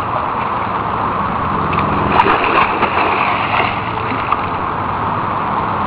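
Steady rushing and splashing of water in a swimming pool, with a few sharper splashes about two seconds in.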